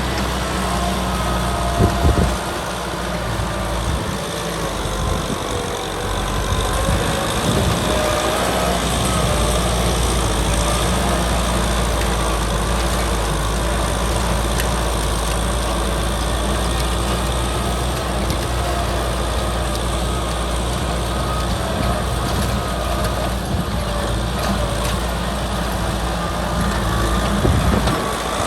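Kubota tractor engine running steadily, with a short knock about two seconds in and another near the end.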